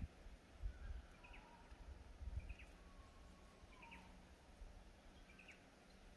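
Faint bird calls over near silence: a short high chirp about every second and a half, four times, with a few soft whistled notes beneath, one of them falling. Two soft low bumps come about one and two seconds in.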